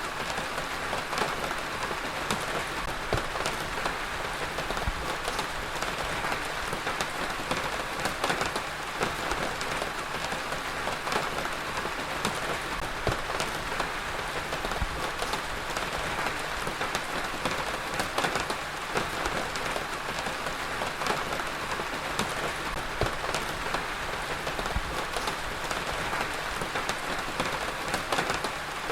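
Heavy rain falling steadily, a dense hiss of rain on surfaces with many individual drops pattering sharply throughout.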